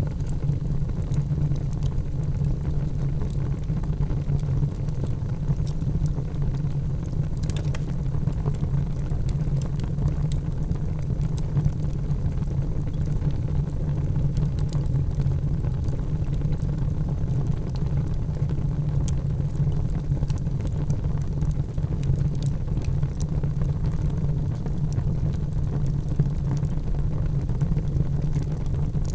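Fire burning in a fireplace: a steady low rumble with scattered crackles and pops, one sharper pop about seven seconds in.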